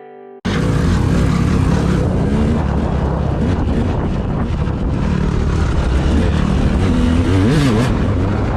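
Heavy wind noise buffeting the microphone over a running vehicle engine, cutting in abruptly about half a second in as a short musical sting ends.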